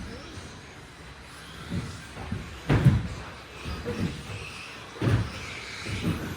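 Radio-controlled stadium trucks racing: a run of dull thuds and knocks as the trucks land and strike the track, the loudest about three seconds and five seconds in.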